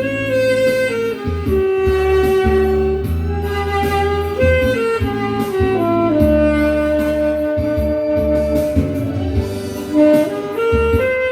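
Tenor saxophone playing a slow melody of long held notes over an accompaniment with a steady bass line. The line steps down through the middle and climbs back up near the end.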